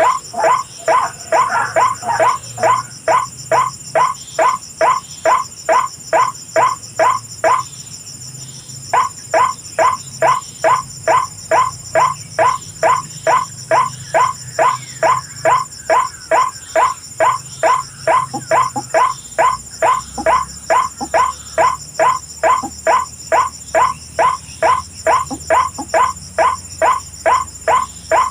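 White-breasted waterhen (ruak-ruak) calls: a loud, monotonous series of short call notes, about two and a half a second, broken by one pause of about a second around eight seconds in.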